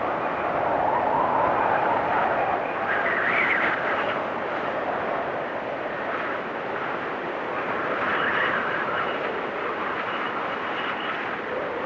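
Blizzard wind blowing in gusts, swelling and easing every few seconds, with a faint high whistle at times.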